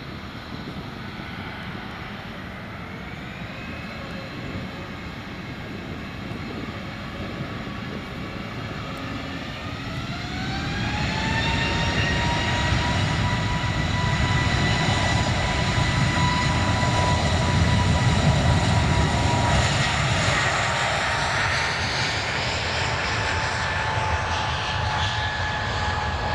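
Boeing 777-300ER's GE90-115B turbofan engines spooling up: a whine rises in pitch a couple of seconds in, then rises again more strongly about ten seconds in and holds steady and louder, with a deep rumble underneath.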